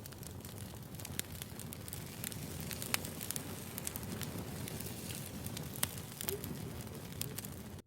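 Wood fire burning: a steady low rush of flames under frequent sharp crackles and pops of the burning logs, two of them louder about three seconds in and near six seconds.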